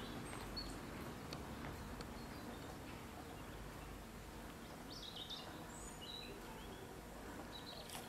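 Outdoor ambience: faint steady background noise with a few short high bird chirps, most of them in a cluster about five to six seconds in.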